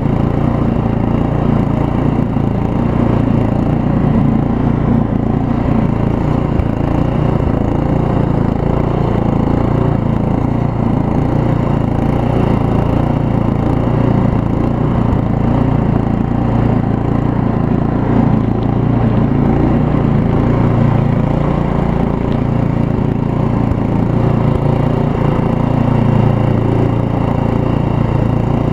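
Craftsman RE2000 Ride and Mulch riding mower's engine running steadily at working speed while it drives and mows, a loud rough drone. The owner says it could use an exhaust, which leaves it louder and raspier than a well-muffled engine.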